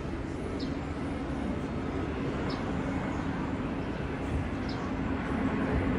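Rumble of an Airbus A350-900's Rolls-Royce Trent XWB jet engines on approach, steady and slowly growing louder. A few short bird chirps sound over it.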